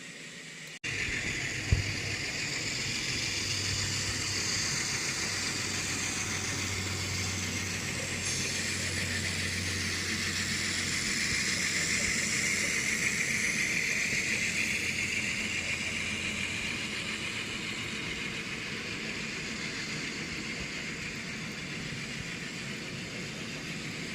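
Diesel engine sound from an N scale Atlas Alco FA-1 locomotive's ESU LokSound decoder, played through its small onboard speaker, running steadily with a hiss. It starts abruptly just under a second in, followed shortly by a sharp click.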